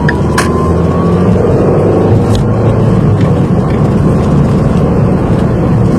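In-cabin drone of a manual-transmission car's engine and tyres on the road, the engine note rising from about one to three seconds in as the car accelerates. A few sharp clicks sound over it.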